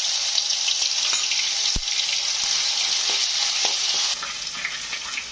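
Ginger-garlic paste sizzling in hot oil with cumin seeds, bay leaves and dry red chillies in a steel kadai, stirred with a steel spatula. The sizzle starts suddenly as the paste goes in and eases about four seconds in. There is one dull bump about two seconds in.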